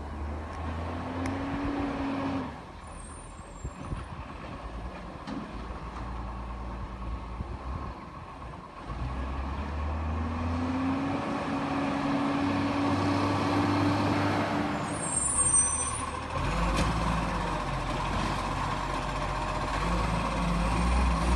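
Garbage truck's diesel engine revving up and settling back several times, with a couple of short high hisses of air.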